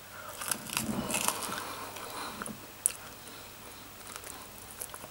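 Person biting into and chewing a sauce-covered chicken wing: quiet, wet mouth sounds with a few small clicks, one sharper click about three seconds in.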